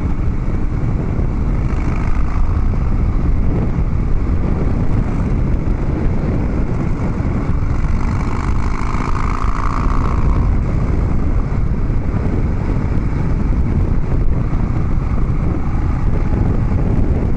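Harley-Davidson Dyna Street Bob's V-twin engine running through a Vance & Hines Big Radius 2-into-2 exhaust while riding, steady and loud, mixed with wind noise on the microphone.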